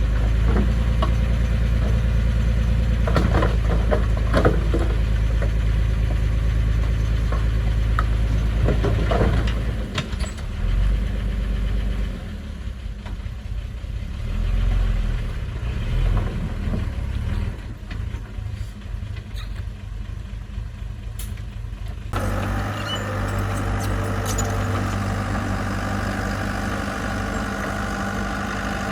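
Heavy-equipment engine running, with several sharp metallic clanks in the first ten seconds. The engine sound falls away after about ten seconds, and about 22 seconds in it switches abruptly to another steady engine note.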